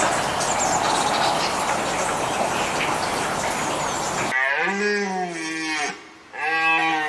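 A cow mooing twice in long, drawn-out calls, after a loud steady rushing noise with a few faint high chirps in it that cuts off suddenly about four seconds in.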